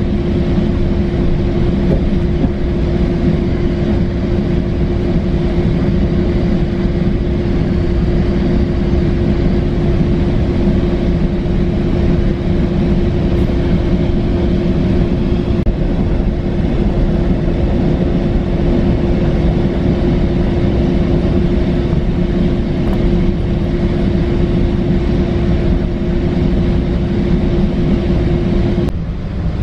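Metrolink commuter train heard from inside a passenger car while riding: a steady rumble with a constant hum at one pitch. The hum cuts off near the end, with a brief dip in the level.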